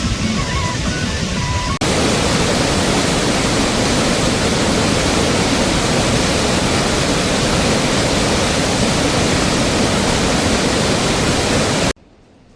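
Heavy rain falling as a loud, steady, dense hiss. It cuts in suddenly about two seconds in, after a little music, and cuts off sharply near the end.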